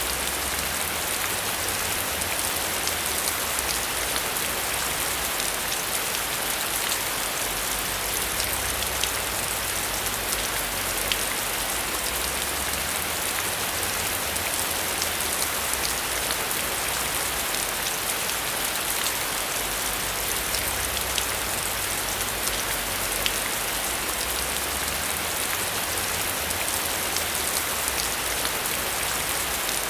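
Steady heavy rain: a dense, even hiss with many individual drops ticking sharply through it.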